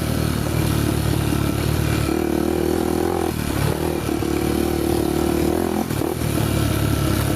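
Honda motorcycle engine running while riding a dirt trail, its note changing with the throttle about two, three and six seconds in.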